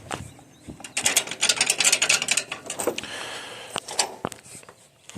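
Rapid metallic clicking and rattling, then a few separate clunks, from an old Allis-Chalmers tractor's gear shift being worked to take it out of gear.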